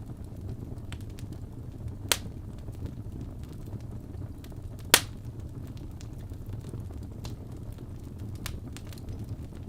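Wood fire burning in a fireplace: a steady low rumble of the flames with scattered faint crackles, and two sharp pops of the burning wood, about two seconds in and about five seconds in, the second the louder.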